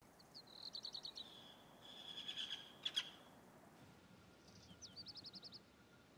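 Small birds chirping in short, high, rapid trills, three phrases in all, faint; a sharp click about three seconds in.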